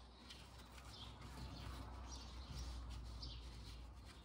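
Faint outdoor ambience: a few short bird chirps come and go over a low rumble.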